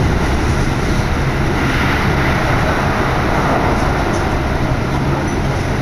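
Keikyu Main Line commuter train running at speed, heard from inside the carriage: steady running noise with a low hum underneath.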